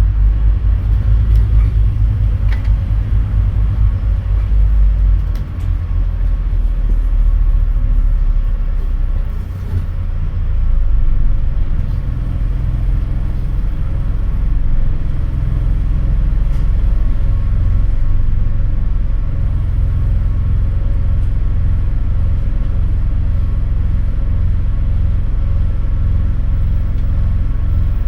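A 2008 Scania N230UD double-decker bus's diesel engine pulling hard while the bus is driven, heard on board as a loud low rumble. The engine sound dips briefly about five seconds in and again around nine to ten seconds in, picks up again, and settles into a steady low pulsing drone.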